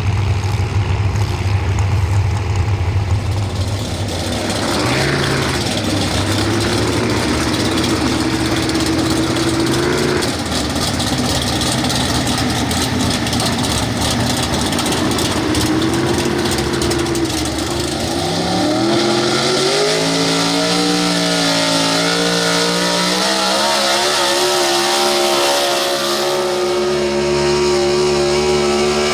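Pro Stock 4x4 pulling truck's engine running low and steady, then revving up about eighteen seconds in and holding at high revs.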